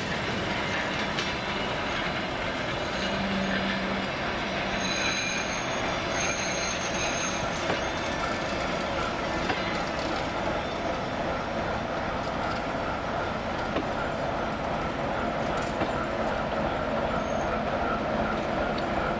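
Passenger coaches rolling past, moved by a ChME3T diesel shunting locomotive: a steady rumble of wheels on rails, with a thin steady whine that comes through more clearly in the second half.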